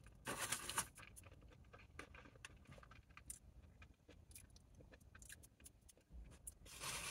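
Close-miked chewing of battered fried cod: scattered soft crunches and wet mouth clicks, with a louder crunchy stretch just after the start.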